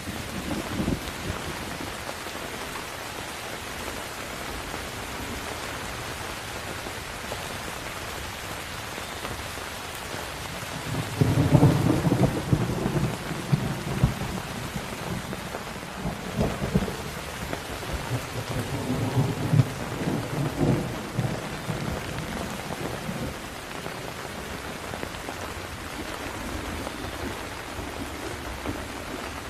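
Steady rain with rolling thunder: a long low rumble swells up about eleven seconds in, peaks, and rolls on in waves until about two-thirds of the way through, over the constant hiss of the downpour.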